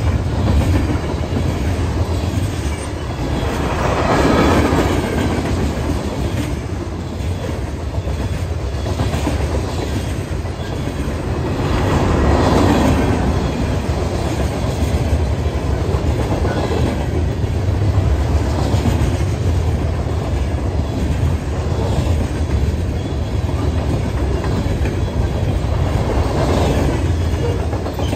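Freight train cars rolling past: a steady rumble of steel wheels on rail with clacking over the joints, swelling louder a few times as different cars go by.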